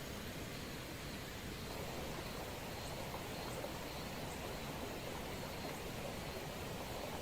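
Steady rain falling, an even hiss with light pattering that picks up about two seconds in.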